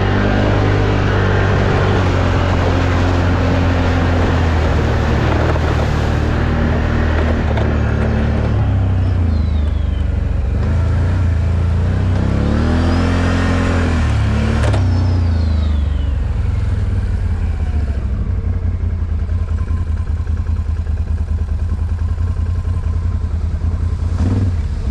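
ATV engine running under load off-road, the throttle rising and falling, with one rev swelling up and back down about halfway through. A single sharp knock comes just after that rev.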